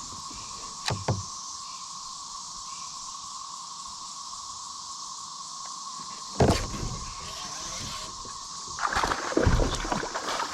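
Steady outdoor insect drone with a thin steady tone, broken by a few knocks from handling on the kayak: a sharp one about six seconds in and a run of clattering and rustling near the end.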